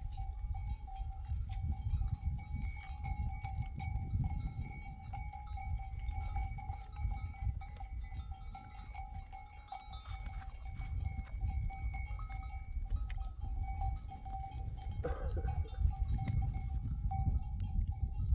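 Bells on a flock of sheep ringing and clinking continuously over a low wind rumble on the microphone, with a brief animal call about fifteen seconds in.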